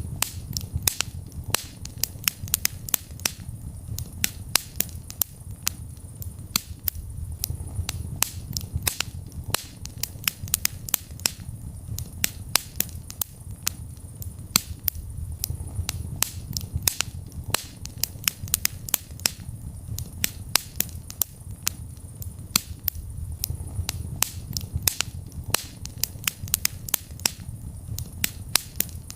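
Wood fire in a fireplace crackling, with frequent sharp, irregular pops and snaps over a soft low rumble of the flames.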